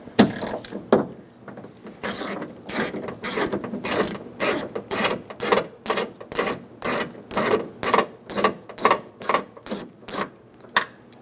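Ratchet wrench with a T30 Torx bit backing out a screw: a couple of knocks, then an even run of ratchet clicks about three a second.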